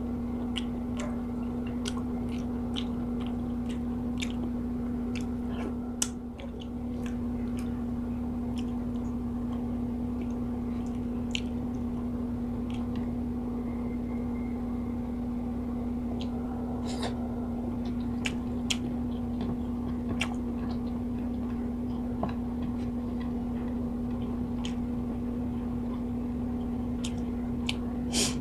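Close-up eating sounds of a person chewing a mouthful of fried fish and rice, with many small wet mouth clicks scattered throughout. A steady low hum runs underneath.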